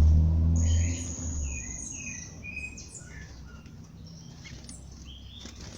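Several songbirds singing and calling in a dawn chorus: quick chirps and trills overlapping, with one long high whistled note about a second in. A low hum, the loudest thing at first, dies away within the first second and a half.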